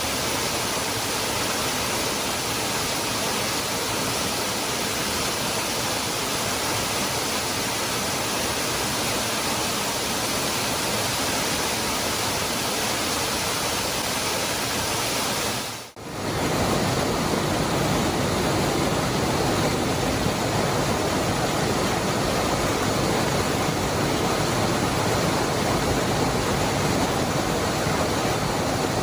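Cascada del Hervidero waterfall rushing steadily, a constant wash of falling water. About halfway through it drops out for a moment and returns fuller and deeper, as at a cut between two takes.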